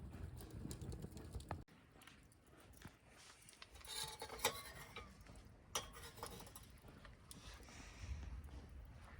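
A few light metallic clinks and rattles with a short ring, bunched about four seconds in, and a single sharp click near six seconds, as of small metal camp cookware or utensils being handled. Before them a low rumble cuts off abruptly early on.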